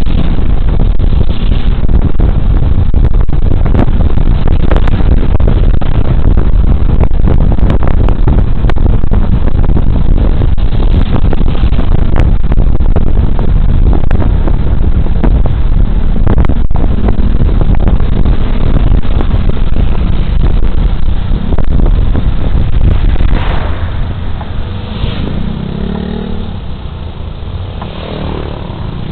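Heavy wind noise on a body camera's microphone while riding a Suzuki Burgman Street 125 scooter at speed, with engine and road noise underneath. Near the end the wind noise drops as the scooter slows, and the hum of its single-cylinder engine comes through more clearly.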